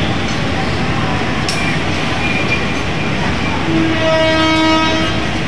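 Passenger train rolling past on the near track: a steady rumble of steel wheels on rail. A single steady horn note sounds for over a second about four seconds in.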